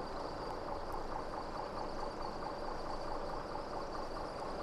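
Faint steady background noise with a thin high whine, and no distinct events.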